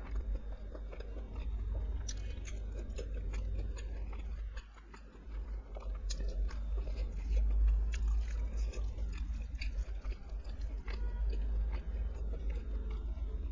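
Close-miked chewing and biting of a mouthful of curry and fried rice, with many sharp wet mouth clicks and smacks, over a steady low hum.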